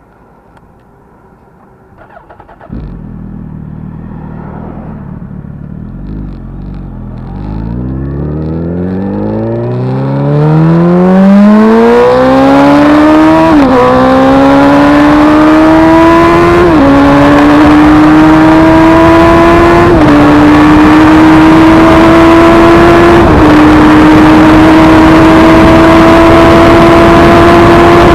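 Suzuki Hayabusa inline-four motorcycle engine accelerating hard through the gears. Its note climbs, then drops sharply at four upshifts about three seconds apart, climbing more slowly in each higher gear, over a rushing noise that grows with speed.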